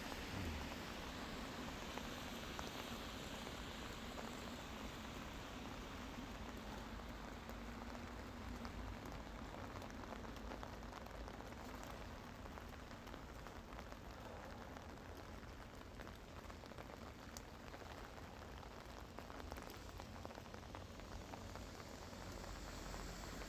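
Steady rain falling: a dense patter of drops over an even hiss.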